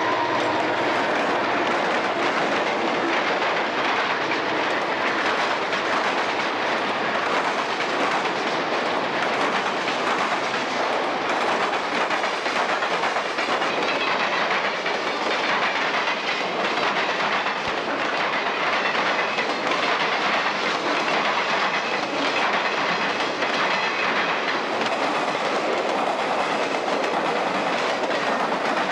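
Freight train's boxcars rolling past close by, a steady loud clatter of steel wheels running over the rails.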